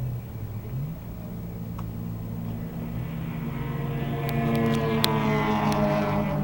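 Stock car engines running, one growing louder as the car draws closer and its pitch dropping slightly as it goes by near the end. A few sharp ticks sound in the second half.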